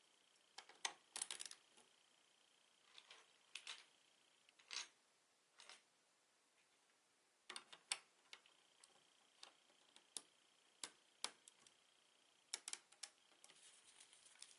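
Plastic Lego bricks being handled and pressed together: scattered sharp clicks and taps, some in quick clusters of two or three, with gaps of up to a couple of seconds between them.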